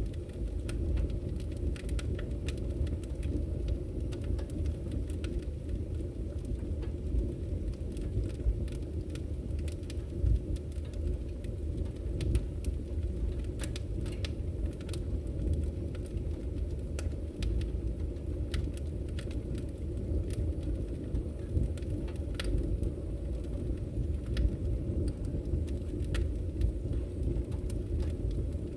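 Wood fire burning in a fireplace: a steady low rush of flames with frequent sharp crackles and pops at irregular intervals.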